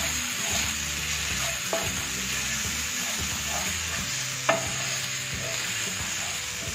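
Ginger-garlic paste sizzling in mustard oil in a nonstick frying pan while a wooden spatula stirs and scrapes through it, with a sharper tap of the spatula on the pan about two thirds of the way in. The masala is being roasted until it gives up its oil.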